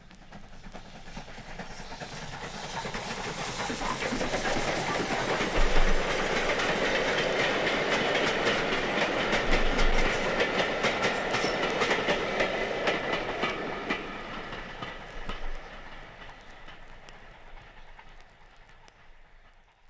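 A train passing: wheels clicking over rail joints. It swells over the first few seconds, is loudest through the middle, and fades away near the end.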